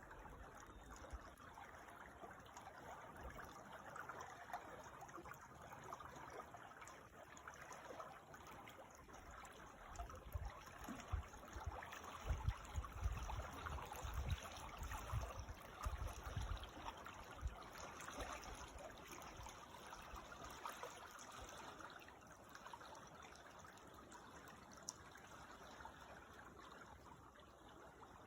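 A small creek trickling and babbling steadily, faint. Bursts of low rumble come and go through the middle stretch.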